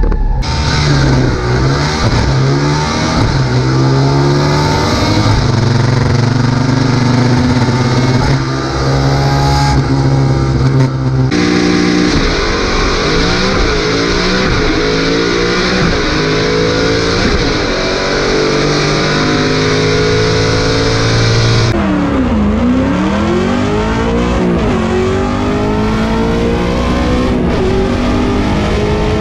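Drag car's engine heard from inside the cabin, running and being revved up and down while the car waits and creeps up to the starting line. The pitch rises and falls again and again, and the tone changes sharply twice, about a third and two-thirds of the way through.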